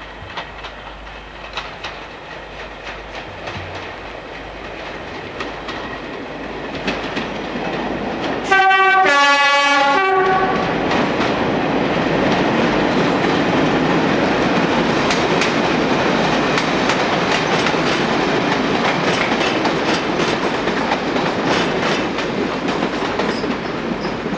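A train approaches and grows louder, then sounds a two-tone horn for about two seconds a third of the way in, the pitch stepping between its two notes. A Network SouthEast first-generation diesel multiple unit then runs past close by with wheels clattering over the rail joints, easing off slightly near the end.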